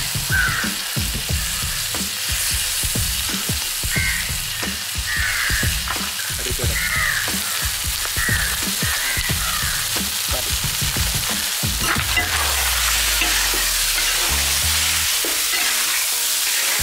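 Beef liver roast sizzling and crackling in a wide pan over a charcoal fire, while a ladle stirs and scrapes through the thick masala.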